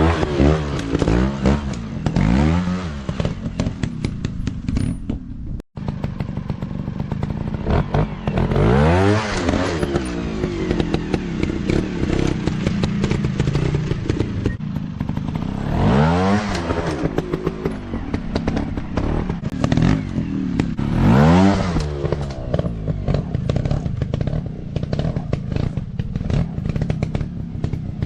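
Dirt bike engines revving up and down over and over, the pitch rising and falling with each throttle blip. The sound cuts out for an instant about six seconds in.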